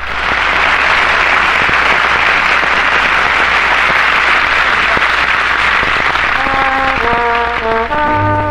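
Studio audience applauding steadily; band instruments come back in faintly under the applause about six and a half seconds in and build toward the end.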